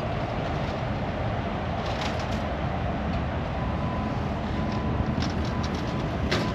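Diesel semi truck engine idling steadily, a low even rumble, with a few light clicks.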